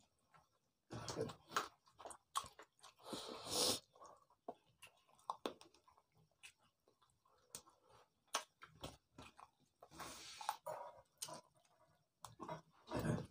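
Mouth sounds of rice and chicken curry being eaten by hand: wet chewing with many short clicks, and a few louder, longer stretches of noise, about a second in, around three and a half seconds, around ten seconds and near the end.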